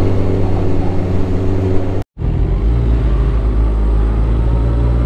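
Honda sport motorcycle engine running steadily at low revs, pulling in first gear up a steep climb. The sound cuts out abruptly for an instant about two seconds in, then the engine carries on.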